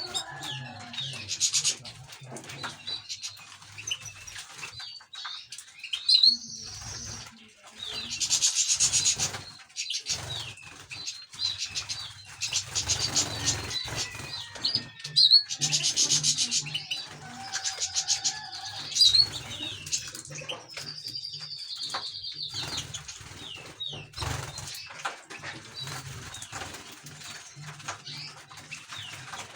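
Small caged finches singing continuously in fast trills and chirps, with a few sharp clicks.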